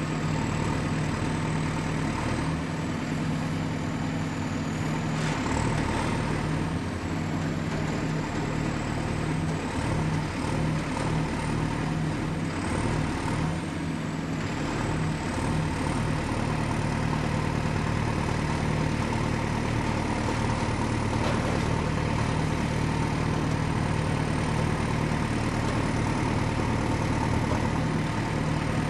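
Excavator's diesel engine running steadily, with a thin high whine that drifts up and down in pitch.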